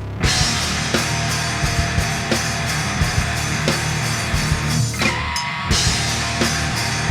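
Instrumental passage of a progressive alternative-rock song: a drum kit keeps a steady beat under distorted electric guitar. The band cuts out the low end briefly about five seconds in, then comes back in.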